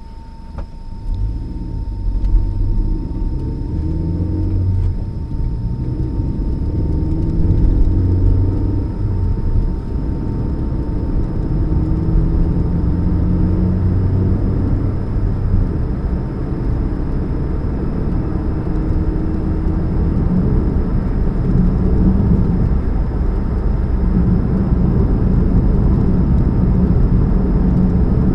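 2013 Chevrolet Spark running with a loud, low hum that starts about a second in and shifts up and down in pitch, as the engine speed changes. The title blames the humming on a leak at the catalytic converter.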